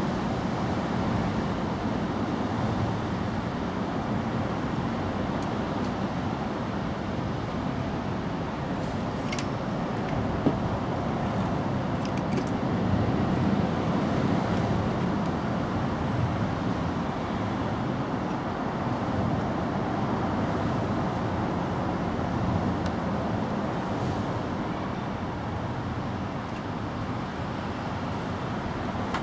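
Steady background rumble, with a few faint ticks about ten seconds in.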